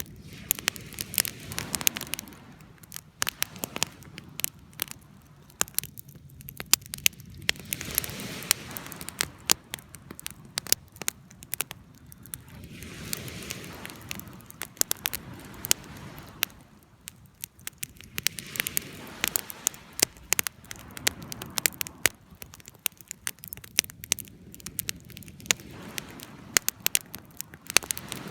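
Wood fire burning, with frequent irregular sharp crackles and pops over a soft rushing of flame that swells and fades every few seconds.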